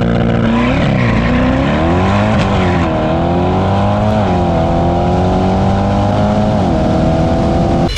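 Car engine accelerating hard, its pitch climbing and dropping sharply at each of several upshifts.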